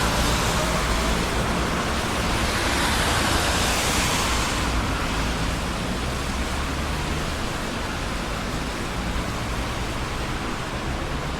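Traffic on a busy city street: a continuous rush of passing cars and tyre noise. A loud vehicle's engine drone fades away at the start, and another vehicle's tyre hiss swells and passes a few seconds in before the traffic settles to a steadier, slightly quieter rush.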